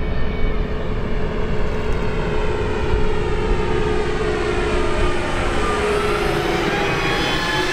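Large RC Boeing 777X model airliner's engines whining in flight over a low rumble of wind, the whine sliding down in pitch in the last few seconds as it passes by.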